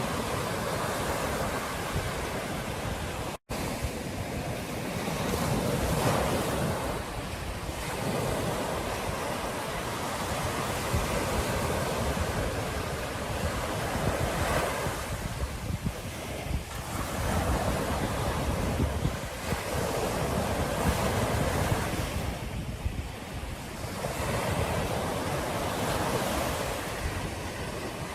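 Ocean surf breaking and washing up the beach, swelling and easing every few seconds, with wind buffeting the microphone. The sound drops out to silence for an instant a few seconds in.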